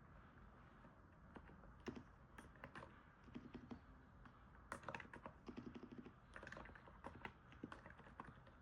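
Faint typing on a NIZ 68 Pro electro-capacitive keyboard: keystrokes in quick runs, starting about two seconds in.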